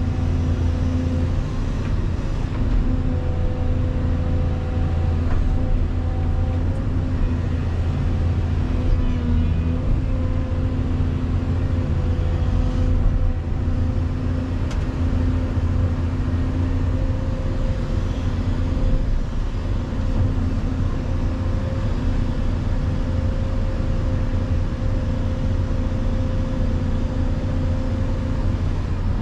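Volvo EC220EL excavator's diesel engine running steadily through the loading work, a constant drone with a steady pitch and small rises and falls in level.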